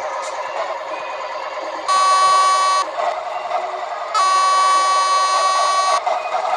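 Truck horn sounding two steady blasts over a running diesel engine: a short one about two seconds in, then a longer one of nearly two seconds.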